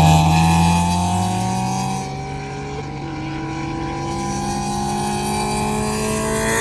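Car engine under way, its pitch dropping in steps over the first three seconds as it lets off and shifts, then climbing steadily as the car accelerates.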